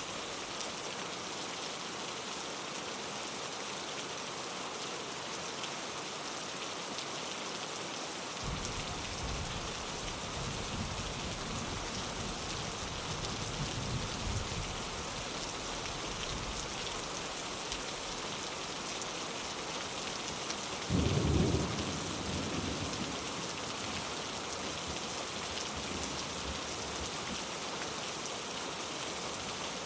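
Steady rain falling on a window, with thunder rolling in. A low rumble starts about a third of the way through and swells. A louder thunderclap about two-thirds in is the loudest moment and rumbles away over a couple of seconds.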